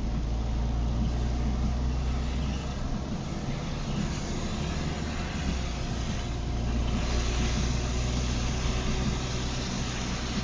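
Inside a moving car in the rain: a steady low engine and road hum under an even hiss of rain and tyres on the wet road. The hiss grows louder about seven seconds in.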